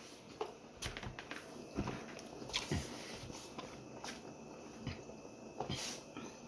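Eating sounds: chewing and wet mouth smacks, with irregular small clicks scattered throughout.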